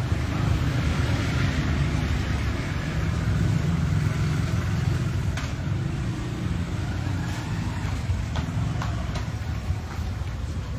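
Steady low rumble of street traffic, with a few faint clicks in the second half.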